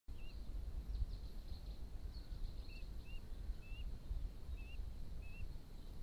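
A bird giving about six short, high chirps at irregular intervals, over a steady low rumble of outdoor noise.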